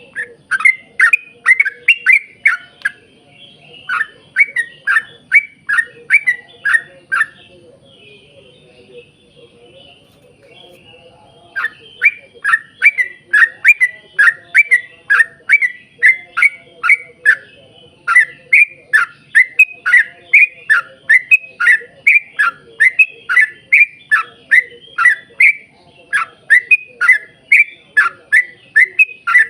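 Yellow-vented bulbul (trucukan) singing a long rapid series of short notes, about two a second, each a quick downward-sliding chirp. The song breaks off for about four seconds about a quarter of the way in, then resumes at the same pace.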